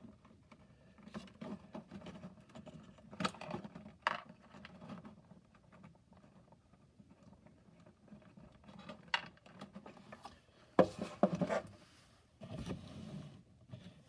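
Cardboard and plastic playset pieces being handled and fitted together: scattered light taps, clicks and scrapes, with a cluster of sharper knocks about eleven seconds in followed by a brief rustle.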